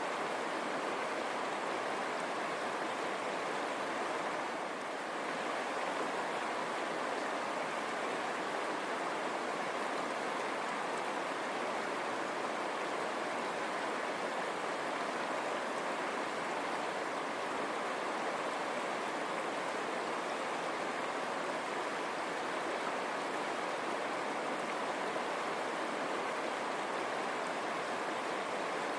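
A river running over stones: a steady, even rush of flowing water.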